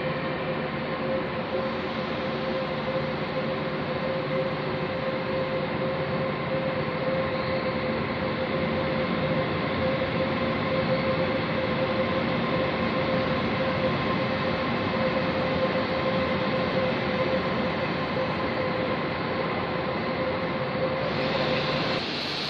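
Passenger train moving through a large covered station: a steady rumble with a steady droning tone over it. The sound changes abruptly near the end.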